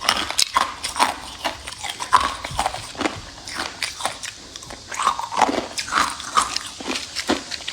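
Close-up crunching of hard ice being bitten and chewed, a rapid run of sharp cracks several times a second.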